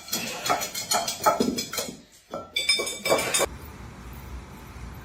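Rapid, irregular clinking and clattering of hard objects, like dishes or glass knocking together, for about three and a half seconds, then only a steady low hum.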